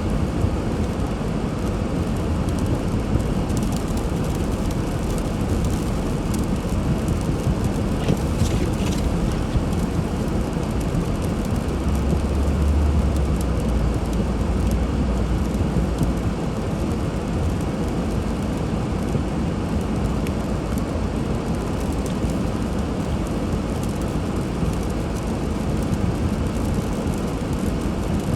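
Car driving on a snowy road: steady engine, tyre and wind noise, with a deeper rumble about twelve to sixteen seconds in.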